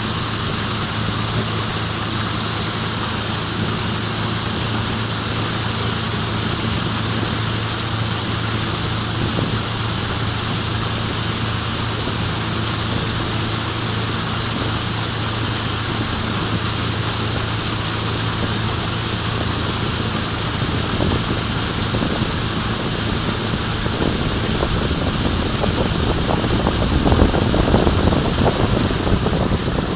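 Jet ski engine running steadily with a low hum under a wide rush of wind and water. It grows louder near the end, with the engine pitch rising.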